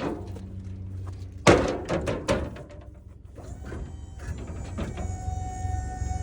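Heavy metal clunks and bangs from a box truck's body, one loud bang about a second and a half in followed by a few lighter knocks, over a steady low hum of the truck idling. A steady whine with several tones begins about five seconds in.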